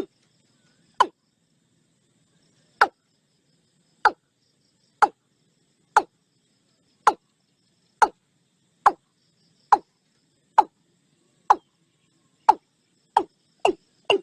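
Watercock calling: a series of short, sharp, downward-sweeping notes, about one a second, coming faster near the end.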